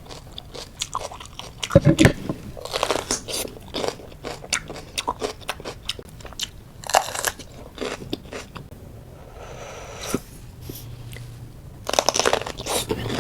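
A person biting and chewing crisp raw fruit chili, a mild pepper. There are bursts of crunching about two, seven and twelve seconds in, with smaller chewing clicks between them.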